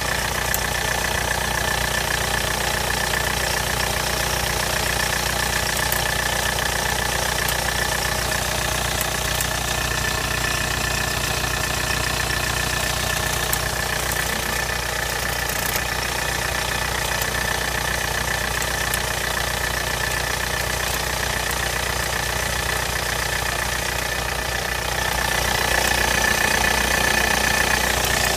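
2001 VW Polo 6N2's 1.9 SDI diesel engine idling steadily with the strange ticking noise the owner is showing, getting a little louder near the end.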